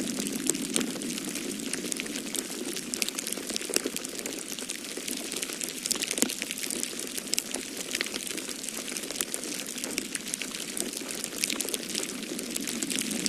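Wood fire crackling in a fireplace, with frequent irregular sharp pops and snaps over a steady low rushing of storm wind.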